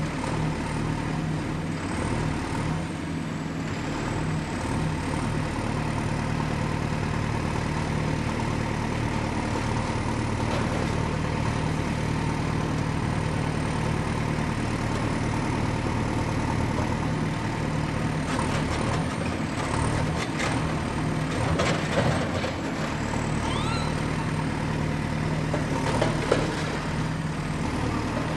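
Excavator's diesel engine running steadily with a low hum and a faint high whine, broken by a few short metallic knocks and clanks in the last third.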